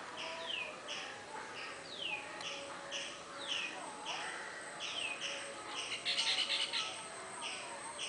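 Birds singing: a falling whistle repeats about every second and a half over steady short chirps about twice a second, with a quick burst of rapid notes about three quarters of the way through.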